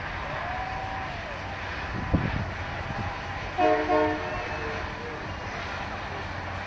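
A freight train's cars rolling past with a steady low rolling noise and a thump a little after two seconds in. About three and a half seconds in, a horn sounds a chord of several tones in two short blasts.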